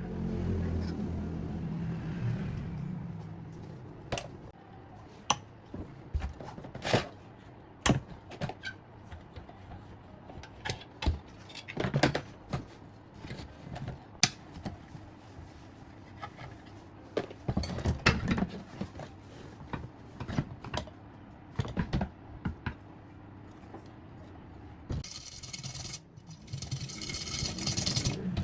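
Small metal parts and hand tools clinking, knocking and scraping at irregular intervals during work on a generator. A hiss lasts about three seconds near the end.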